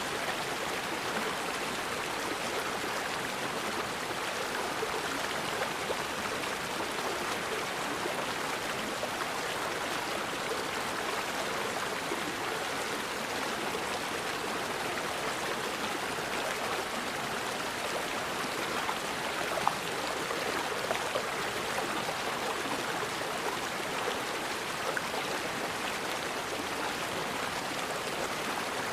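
Forest river flowing steadily, an even rushing of water. A single brief sharper tick stands out about two-thirds of the way through.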